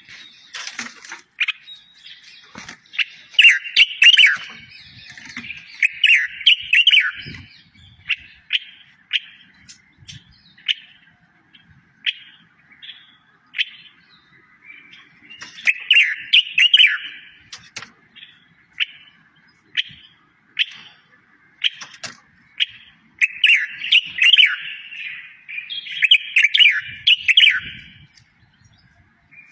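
A songbird singing: phrases of fast, warbling trills come in three bursts, with single short chirps about once a second between them.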